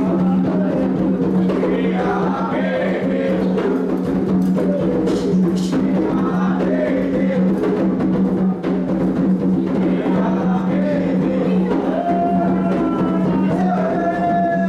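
Candomblé ritual music: drums playing while voices sing a wavering melody, over a steady low hum.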